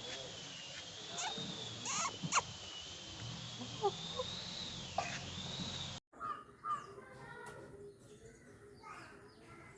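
Chickens and other birds calling in short clucks and chirps, over a steady wavering high-pitched whine that runs for about the first six seconds. The sound cuts off abruptly about six seconds in and resumes with short pitched calls.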